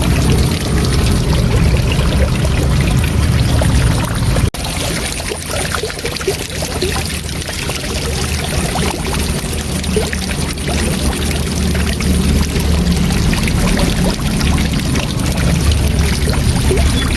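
Waterfall rushing, a loud steady roar of falling water heaviest in the low end, with a momentary drop out about four and a half seconds in.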